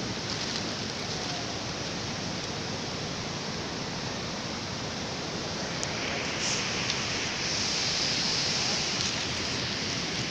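Waterfall rushing: a steady, dense hiss of falling water, growing a little louder and brighter about six seconds in.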